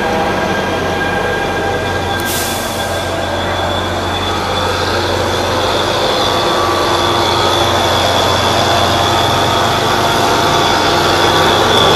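Diesel passenger locomotive and its coaches rolling slowly past close by, the engine running under a steady high-pitched wheel squeal, with a short hiss about two seconds in; the sound grows slowly louder.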